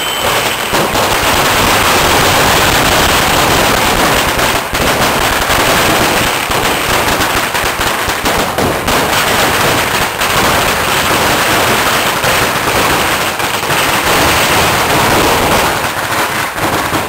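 Fireworks going off in a dense, rapid crackle of small bangs, loud and unbroken.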